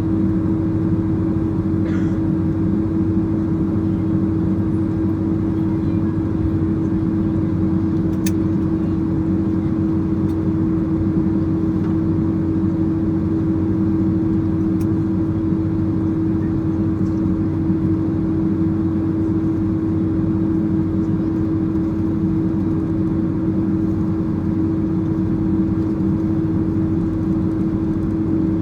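Cabin noise of a Boeing 767-300ER taxiing with its GE CF6 turbofans at low thrust: a steady engine drone with a constant low hum over a rumbling airflow, with a couple of faint ticks in the cabin.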